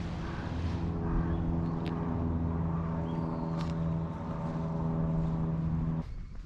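An engine running steadily at idle, with a constant low hum and pitch, that cuts off suddenly near the end.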